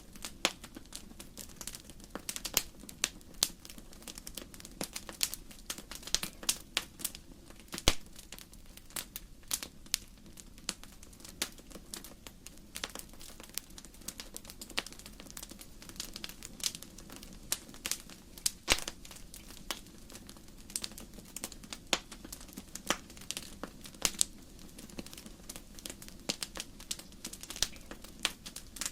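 Wood fire burning in a fireplace, logs crackling with many irregular sharp pops and snaps over a low steady rumble of the flames.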